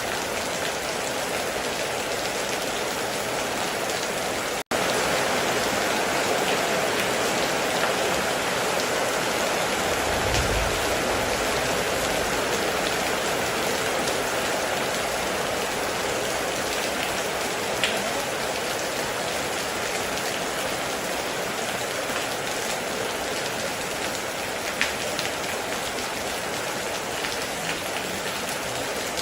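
Heavy rain falling steadily on a metal roof, a dense even hiss. It cuts out for an instant about five seconds in, and there is a short low rumble around ten seconds in, with a few sharp single drop ticks later.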